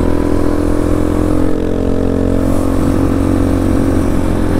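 2023 X-Pro Titan DLX dirt bike's engine running under way in fifth gear at steady revs, its pitch dropping slightly about a second and a half in.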